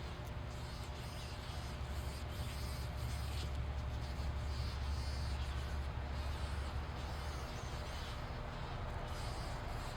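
Steady outdoor background noise with a low rumble, which eases off about seven and a half seconds in.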